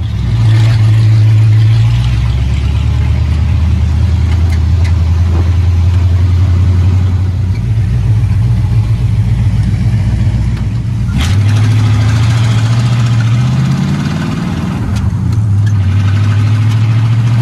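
Hot rod engine running while driving, a loud, deep, steady note. About two-thirds of the way through the pitch climbs as the car accelerates, then drops back at a gear change.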